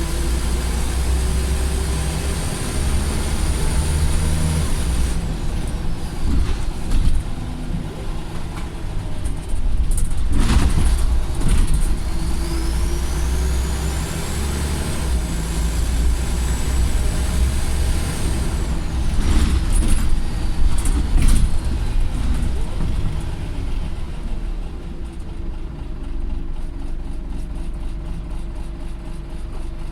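Scania bus diesel engine running with an extremely loud, high turbo whistle that rises and falls with the revs: it winds down about five seconds in, spools up again around twelve seconds, holds, and falls away near nineteen seconds. Short bursts of hiss come around ten seconds and again around twenty seconds.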